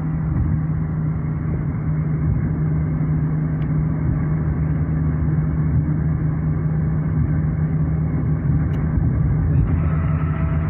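Steady vehicle engine and road noise: a constant low drone from a motor vehicle running along the road.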